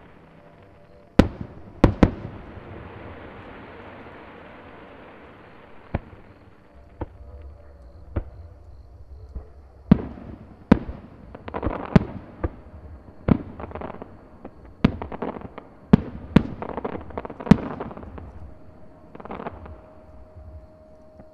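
Fireworks display: aerial shells bursting with sharp bangs, a few spaced ones at first, then a quickening volley with crackling between the bursts from about ten to eighteen seconds in.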